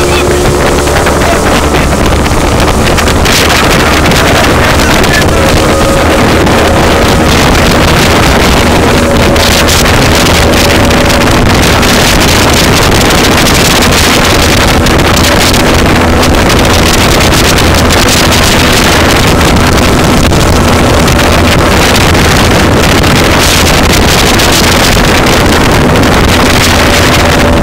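Motorboat running at high speed, its engine and the rush of water steady and loud, with heavy wind buffeting the microphone.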